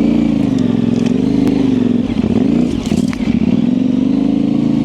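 Yamaha Ténéré 700's parallel-twin engine, fitted with an aftermarket high exhaust, running at low revs off-road. The throttle eases off and comes back on about two seconds in, and there are a few short knocks and scrapes about three seconds in.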